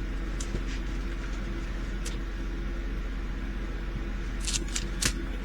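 Steady low electrical or fan-like room hum, with a few faint light clicks and crinkles near the start, about two seconds in, and near the end, from small plastic bags of diamond-painting drills being handled.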